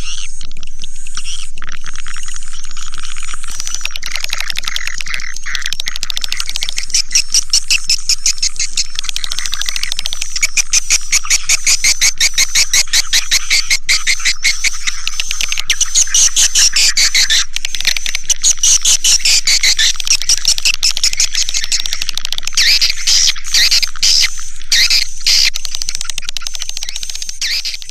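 Swiftlet call recording: a dense chorus of swiftlets twittering, a fast stream of high chirps that pulses rapidly through most of it. This is the kind of 'suara panggil' call sound played to lure swiftlets into a nesting house.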